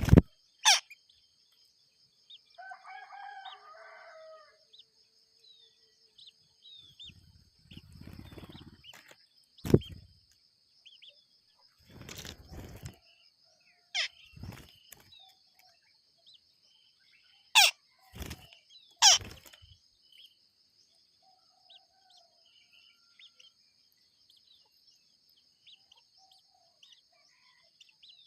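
A rooster crows once, about three seconds in, over a steady high-pitched hum and scattered short bird chirps. Several sharp clicks or knocks are the loudest sounds, the last two close together.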